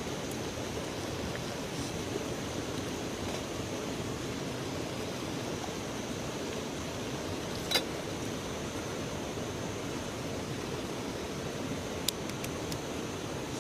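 River water running with a steady rushing noise. One sharp click is heard a little past halfway, and a few faint ticks come near the end.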